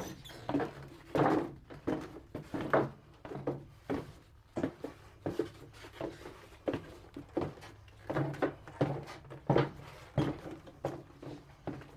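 Footsteps on a hard floor, about two steps a second and somewhat uneven.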